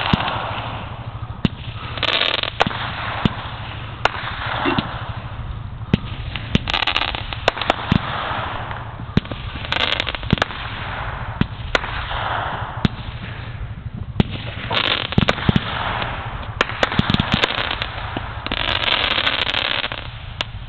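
Fireworks going off: a steady run of sharp, irregular bangs and pops, with repeated bursts of crackling hiss lasting about a second each.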